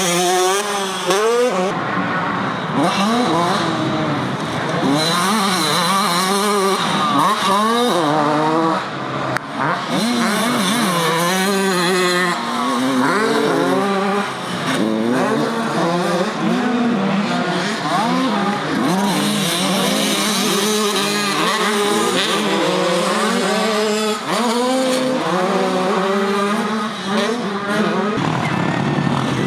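Several motocross bikes racing together, their engines revving up and down over and over as riders open and close the throttle and shift, the pitches of different bikes overlapping.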